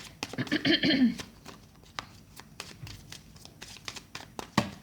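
Tarot cards being handled: a string of light, sharp clicks and snaps of card stock, with one louder snap near the end.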